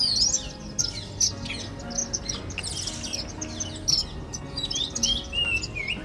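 Small birds chirping and twittering: a dense run of quick, high chirps with a longer wavering whistle near the end, over soft background music.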